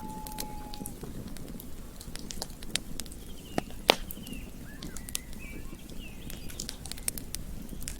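Campfire crackling, with scattered sharp pops over a low steady rustle of burning wood; the loudest pop comes about four seconds in. A held whistle-like call ends about a second in, and faint chirping calls sound in the middle.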